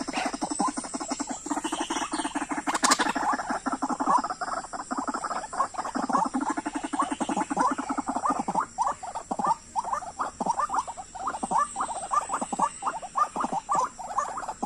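A long run of short animal calls repeated rapidly, a few a second, with a buzzing undertone through the first half.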